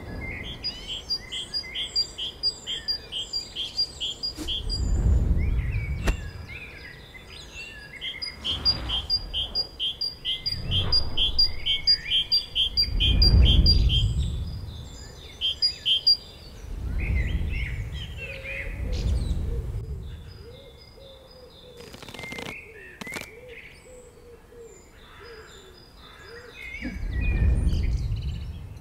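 Several songbirds singing in woodland, one repeating a fast run of high chirps over and over for the first half, others calling more sparsely later. Low rumbling swells of noise come and go every few seconds, and two sharp clicks sound about two-thirds of the way in.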